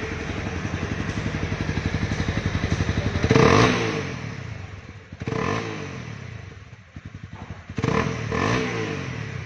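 Honda CB300R's 286 cc liquid-cooled single-cylinder engine idling with an even beat, then blipped four times. Each blip is a quick rise and fall in revs, the first about three seconds in being the loudest.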